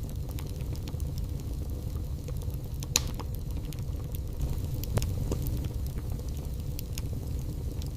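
Wood fire burning in a fireplace: a steady low rumble of the flames with irregular crackles and sharp pops from the logs, the loudest pops about three and five seconds in.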